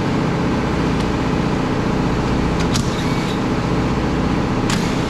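Steady drone of a running motor, with a few sharp clicks about two and a half seconds in and again near the end, as the door mirror's mounting screws are loosened.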